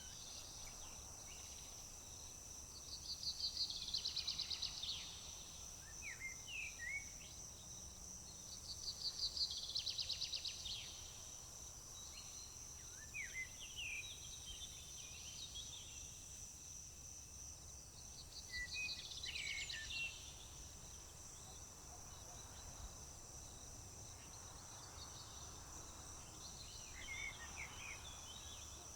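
Songbirds singing over a steady high-pitched drone of crickets or other insects. Three louder trilled song phrases, about 3, 9 and 18 seconds in, with short chirps scattered between them.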